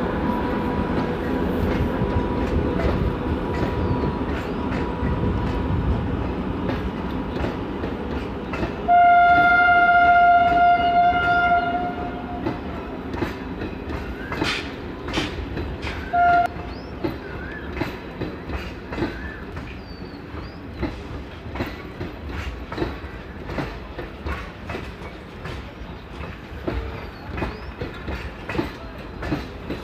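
Passenger train running, its wheels clicking over the rail joints in a steady rhythm. About nine seconds in, the train horn sounds one long, loud blast of about three seconds, then a short toot some four seconds later; the running noise is quieter after the horn.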